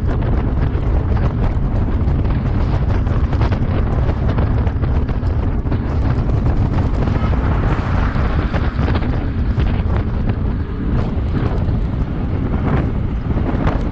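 Strong wind buffeting the microphone of a GoPro action camera while riding a bicycle: a loud, steady low rumble that rises and falls with the gusts.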